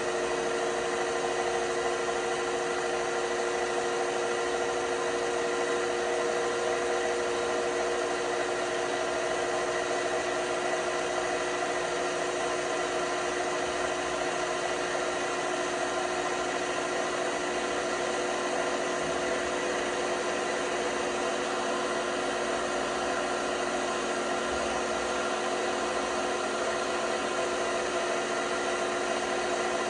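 LG washing machine running, a steady motor hum with a constant whine that does not change in speed.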